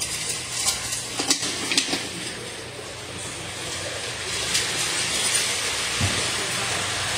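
Rain falling steadily, a continuous hiss, with a few sharper drips tapping close by in the first two seconds and once more past the middle.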